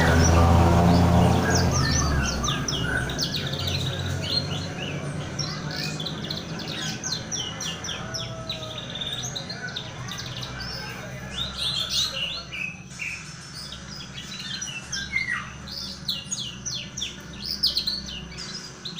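Young black-naped oriole (kepodang) chirping and calling in quick runs of short, squeaky notes. A low drone fades away over the first two seconds.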